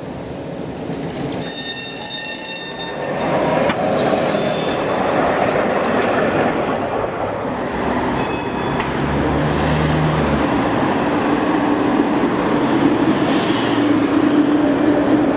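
A tram passing close on street track. Its wheels squeal in high tones three times in the first nine seconds over a loud rolling rumble, then a steady motor hum carries through the second half.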